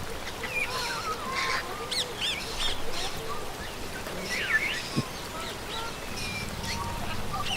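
Several birds calling at once: many short overlapping chirps and whistles that glide up and down in pitch, with one sharp click about five seconds in.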